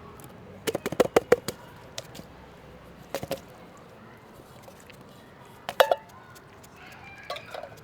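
Short clusters of sharp clicks and crunches, a few at a time, four times over a low steady background hiss.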